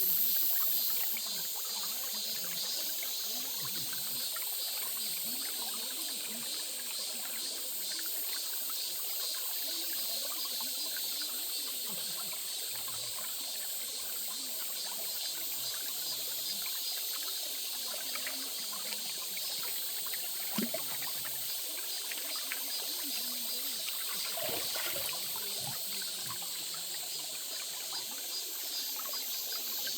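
Water trickling and running steadily in a small stream, with a single brief click about two-thirds of the way in.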